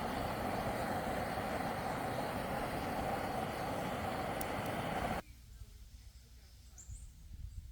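A steady, loud rushing noise that cuts off abruptly about five seconds in. A faint background follows, with a few short, high chirps from a small bird.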